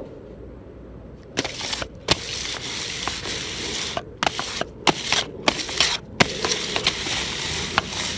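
Plastic snack packaging crinkling and rustling as it is handled, starting about a second and a half in, with many sharp crackles.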